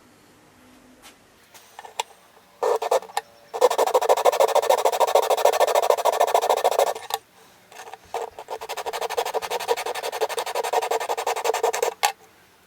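Rapid scraping or rubbing strokes on a hard surface, in two runs of about three to four seconds each with a short pause between, preceded by a few scattered clicks.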